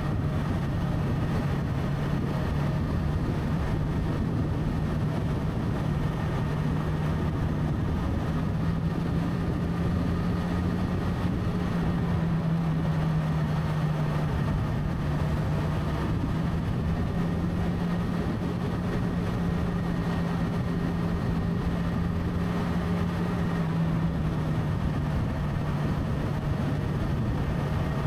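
Motorcycle engine running steadily at cruising speed, its pitch drifting slightly up and down, with wind and road noise.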